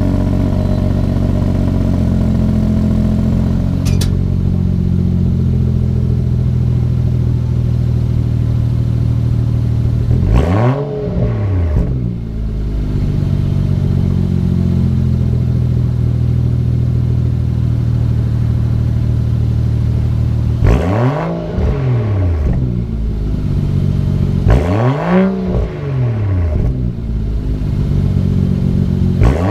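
BMW X4 M40i's turbocharged straight-six idling steadily, heard through its exhaust. It is given three quick throttle blips, about ten seconds in, about twenty seconds in and a few seconds after that; each revs up and drops straight back to idle, and another blip begins right at the end.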